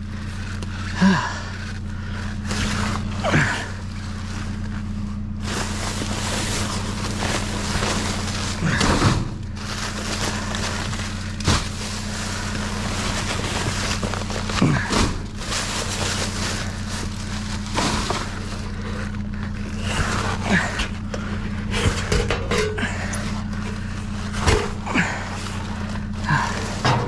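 Scrap and trash being shifted about in a metal dumpster, with scattered knocks and rustling, over a steady low hum.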